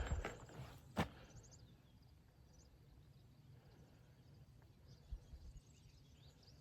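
Quiet open-air ambience with faint, scattered bird chirps and one sharp click about a second in.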